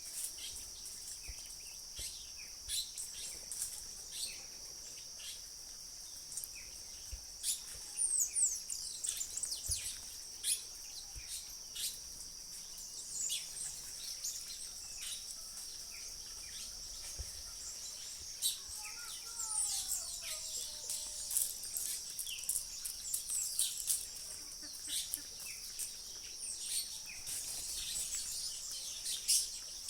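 Outdoor chorus of a steady, high insect drone with many birds chirping over it. About two-thirds through, one bird gives a couple of lower, falling calls.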